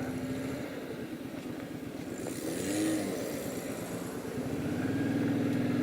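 Motorcycle engine running steadily at low revs, getting a little louder about five seconds in. A brief hiss comes and goes about two seconds in.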